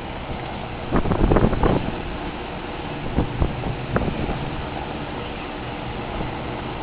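1982 Lakewood 20-inch box fan running, a steady rush of air with a faint hum. A cluster of knocks comes about a second in, and a few single knocks follow around three and four seconds.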